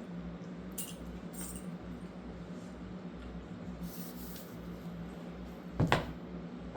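German shepherd puppy chewing on ring toys: faint gnawing clicks and scrapes, with one louder knock about six seconds in, over a steady low hum.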